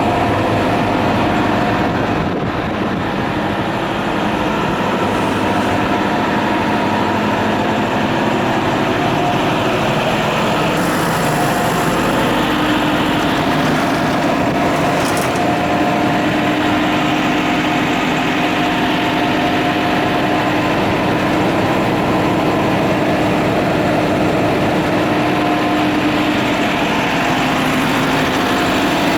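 An engine running steadily at idle, with a few steady tones over an even mechanical hum.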